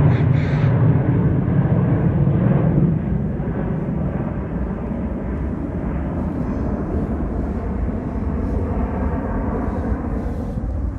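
Jet airliner engine noise: a steady low rumble, louder for about the first three seconds and then easing to a steadier level.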